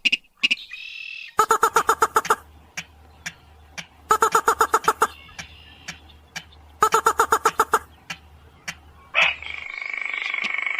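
Recorded rail call, played as a bird-hunting lure: three bursts of about ten rapid, evenly spaced notes, each burst roughly two and a half seconds after the last. About nine seconds in, a different recording cuts in with a steady, continuous call.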